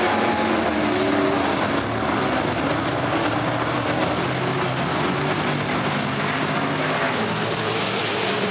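Racing trucks' engines running hard on the track, several engines at once at different pitches, their tones rising and falling against a steady loud din.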